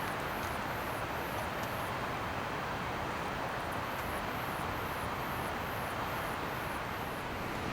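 Steady outdoor rushing noise, such as wind or running water, with faint high chirps repeating about twice a second.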